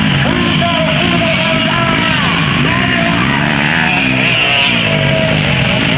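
Several motocross motorcycle engines revving up and down over one another, with music playing underneath.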